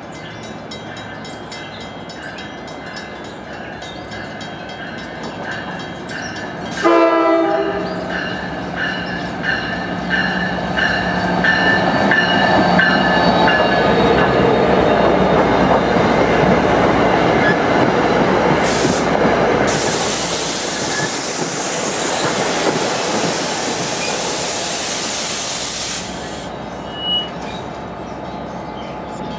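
NJ Transit commuter train pulling into the station on the near track. Its horn sounds suddenly about seven seconds in, loudest of all, then its wheels and cars rush past, with squealing and a high hiss for several seconds from about twenty seconds in.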